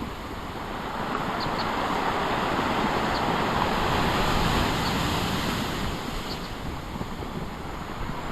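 Big waves breaking and washing on the shore, a surge of surf noise that builds over the first few seconds and then eases off, with wind buffeting the microphone.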